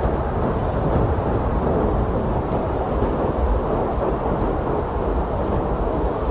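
Blizzard wind blowing steadily: a constant deep rush of noise without whistling tones or separate gusts.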